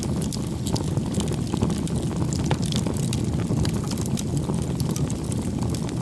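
Campfire burning: a steady low rush of flames with frequent sharp crackles and pops of burning wood.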